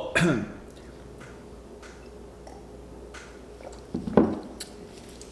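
Faint wet chewing of food, with a few soft squishy clicks. A short vocal sound comes at the start and again about four seconds in.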